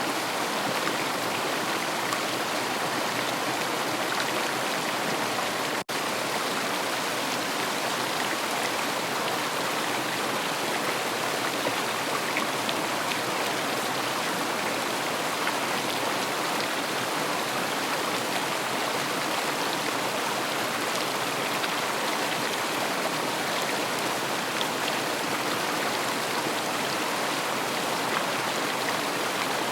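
River water rushing steadily, an even hiss of flowing water. A split-second gap about six seconds in briefly cuts the sound.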